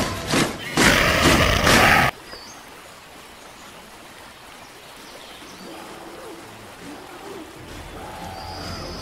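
A loud burst of battle sound cuts off abruptly about two seconds in, leaving quiet woodland ambience: a running stream and a few faint bird chirps.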